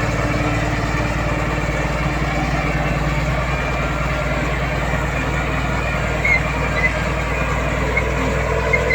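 Heavy diesel earthmoving machinery running steadily with a low, even engine hum. A few short high chirps come in over the last few seconds.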